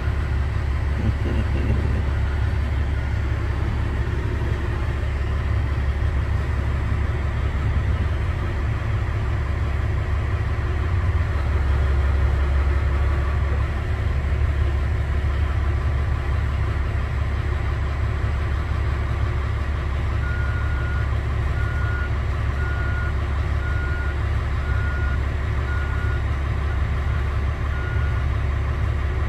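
Heavy machinery engine running with a steady low rumble. From about twenty seconds in, a backup alarm beeps about once a second for several seconds.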